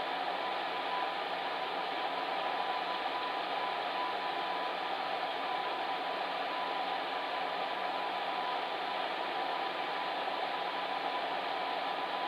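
Electric fan heater running steadily: an even rushing of blown air with a faint constant hum.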